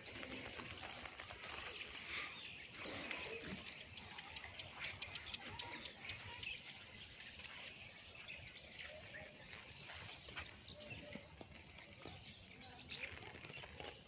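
Birds chirping, many short calls scattered throughout over faint outdoor background noise.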